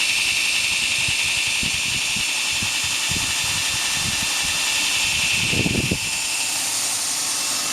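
2x72 belt grinder running at speed on its new 3,480 rpm motor: a steady high-pitched whine over a hiss, with the belt tracking centrally.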